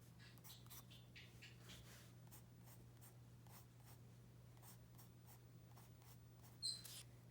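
Soft graphite pencil scratching on paper in quick, short strokes, faint, with a brief high-pitched chirp near the end.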